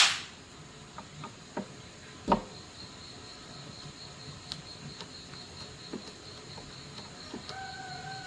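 A sharp knock, a second knock a couple of seconds later, and several light clicks, as of things being handled and set down. A faint high pulsing tone sets in about three seconds in, and a faint steady hum near the end.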